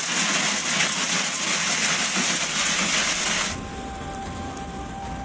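Dense clatter of hailstones pelting hard surfaces. It cuts off abruptly about three and a half seconds in, giving way to a quieter passage with a faint steady tone.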